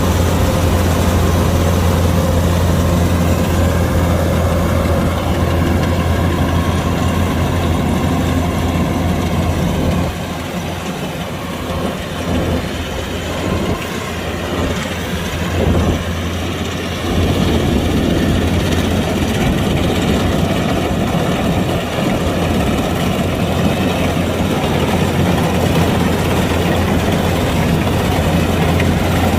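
Kubota DC-105X combine harvester's diesel engine running with a steady low hum. About a third of the way in the sound drops away for several seconds, then comes back to full level.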